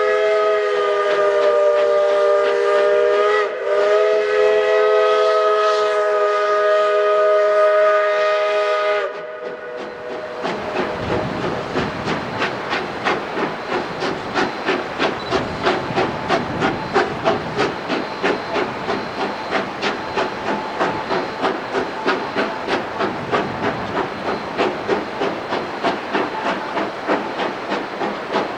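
Steam locomotive whistle blowing a long chord, briefly dipping about three and a half seconds in and cutting off about nine seconds in. The locomotive then chuffs in a steady rhythm with hissing steam as it works the train.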